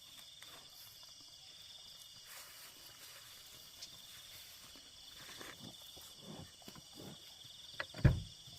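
Steady, high-pitched insect chirring, with scattered soft knocks and a sharper thump near the end.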